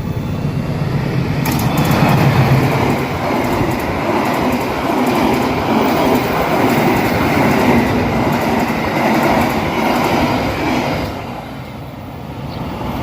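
Train passing close by at speed, with loud rail and wheel noise and a quick clatter of wheels over the track through the middle. The noise eases off near the end as the train goes by.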